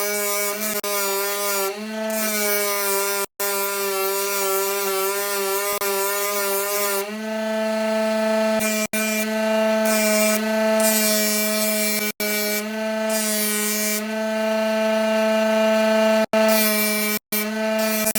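An electric power tool's motor running with a steady pitched hum and a hiss of abrasive work, its pitch wavering slightly under load in the first few seconds. The sound is broken by several abrupt cuts.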